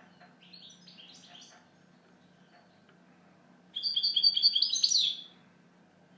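European goldfinch singing: soft twittering in the first second or so, then a louder burst of quick, high twittering notes lasting about a second and a half past the middle.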